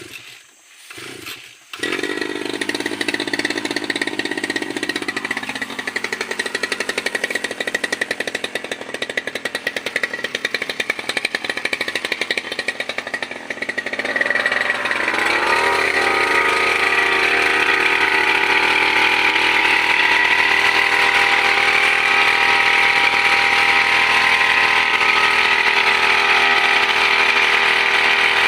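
Brush cutter engine starting up about two seconds in and running with an uneven, pulsing note, then revving up about halfway through and holding a steady high speed.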